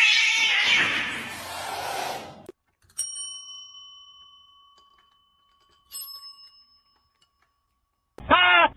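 A small metal bell struck twice, about three seconds apart, each strike ringing out and slowly fading. It follows about two seconds of a loud harsh noise that cuts off, and a short loud call with a bending pitch comes near the end.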